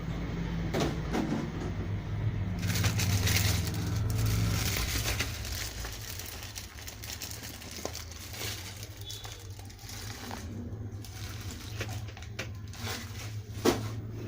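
Packaging on a new washing machine being handled: plastic and cardboard rustling and crinkling, with scattered clicks and one sharp knock near the end, over a steady low rumble.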